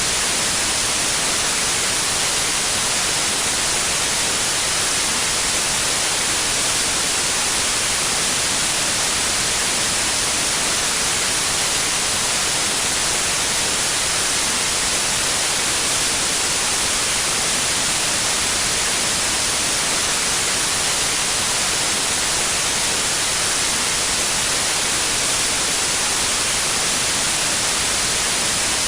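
Steady white noise: a constant, even hiss, strongest in the high range, that does not change.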